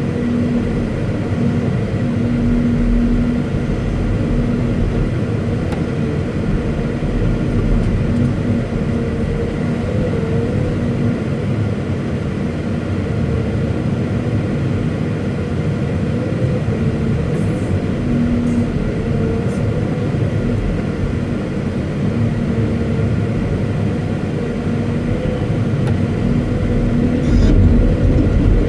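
Caterpillar 329E hydraulic excavator's diesel engine running steadily, its pitch wavering slightly as the load changes, a little louder near the end.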